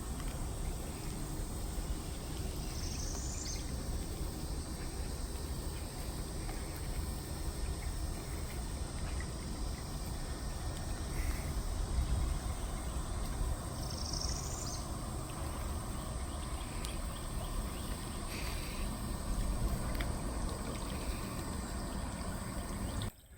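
Outdoor river ambience: a steady, high insect drone over a low rumbling noise, with a short rising bird call twice and a few faint ticks. It cuts off suddenly just before the end.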